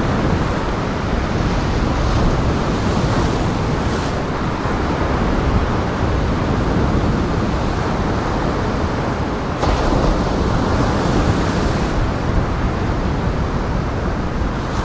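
Steady rush of waves breaking on the shore, mixed with strong wind.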